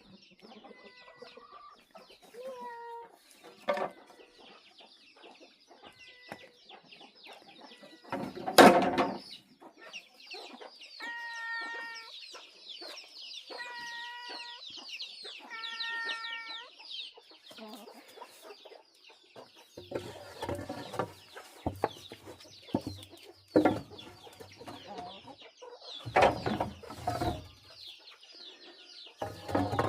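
Chickens clucking and calling, with three pitched calls of about a second each in the middle, over a steady chatter of high chirps. A loud knock comes about a third of the way in, and more irregular knocks and rustling follow in the last third.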